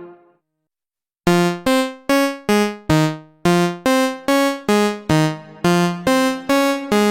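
Waldorf Pulse 2 analog monosynth playing a preset. The last note's tail dies away, and after about a second of silence a sequenced line of short, bright plucked notes starts, about two and a half a second, its pitch stepping up and down.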